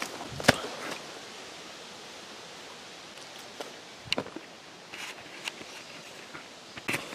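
Steady outdoor hiss with a few brief knocks and rustles: one sharp knock about half a second in, a smaller cluster around four seconds and another near the end.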